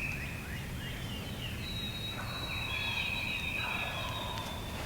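A distant wild turkey gobbler gobbling, over steady high-pitched songbird calls.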